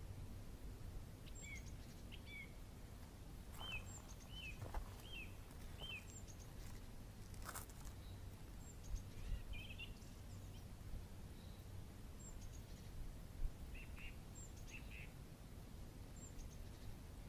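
Small birds chirping: repeated short, falling chirps and thin high calls come every second or two, with a few faint clicks, over a low steady rumble.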